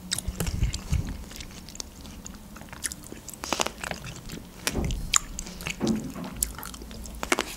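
A person chewing red grapes close to the microphone: irregular wet mouth clicks and small crunches as the grapes are bitten and chewed.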